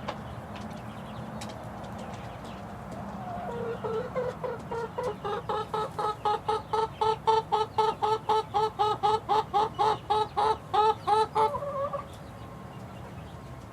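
Six-week-old chickens in a coop: one bird gives a fast, even run of repeated pitched clucks, about four a second, starting a few seconds in and stopping abruptly near the end.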